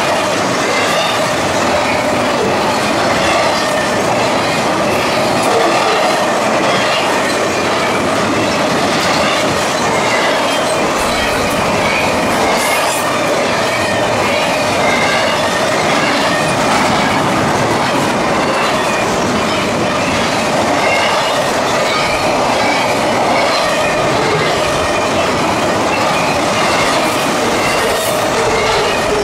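CSX double-stack intermodal freight train rolling past, its wheels on the rail making a steady loud rush with clickety-clack and a steady ringing tone from the wheels.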